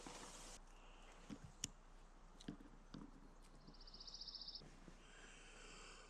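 Near silence: faint outdoor ambience with scattered small ticks and a brief, faint high trill about four seconds in.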